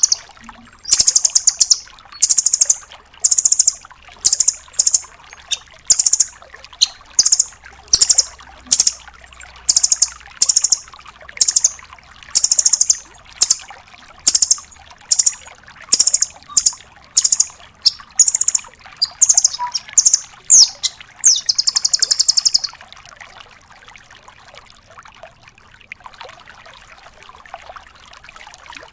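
Velvet-fronted nuthatch (rambatan paruh merah, 'rambatan doraemon') giving sharp, high-pitched calls over and over, about one a second, closing about three-quarters of the way in with a longer fast trill. After that only faint background noise remains.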